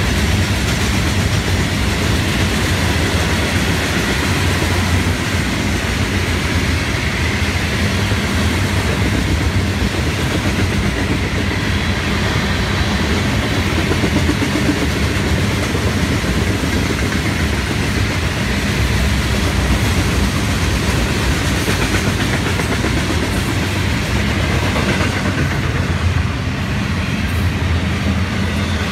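Florida East Coast Railway freight train's cars rolling past: a steady rumble and clatter of steel wheels on the rails. Loaded rock hopper cars pass first, then intermodal well cars carrying containers near the end.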